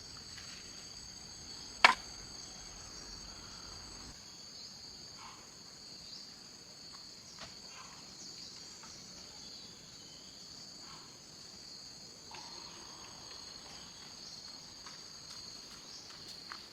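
Steady high-pitched chorus of crickets or similar insects, several even tones held throughout. A single sharp knock about two seconds in is the loudest sound, with faint scattered clicks after it.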